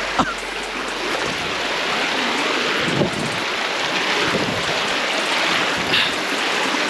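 Steady rush of falling water from a waterfall and creek, growing a little louder over the first couple of seconds.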